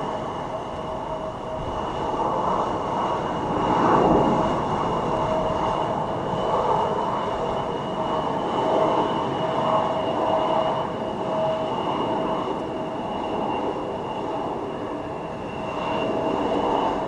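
Jet aircraft engines running with a steady, high whine over a broad rush, swelling about four seconds in.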